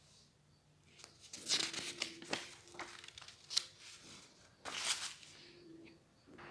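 Paper being handled: a run of short rustling and crinkling sounds over a few seconds, with sharper crackles about a second and a half in, near the middle and about five seconds in.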